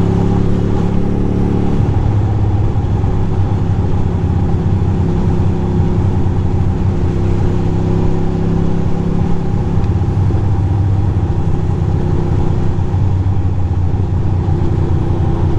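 2006 Ducati Monster 620's air-cooled L-twin engine running steadily under way, its note shifting a little a couple of times.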